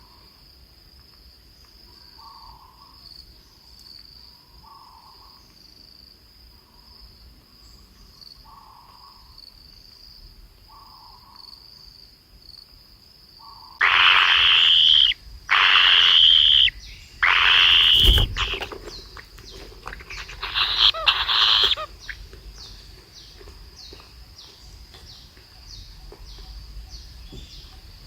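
Three loud, harsh bird calls about a second long each, then a burst of rapid chattering calls. Underneath, a steady high insect trill runs, with soft low calls repeating every couple of seconds.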